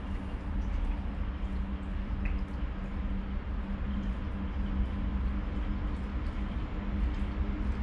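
Electric train approaching on the line, heard as a steady low rumble with a faint, steady hum.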